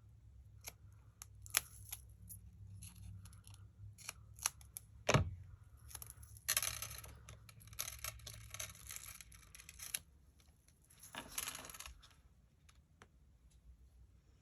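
Scissors cutting and paper and foam-adhesive pieces being handled on a craft table: scattered small clicks, a single knock about five seconds in, and longer stretches of rustling and snipping around the middle and near the end.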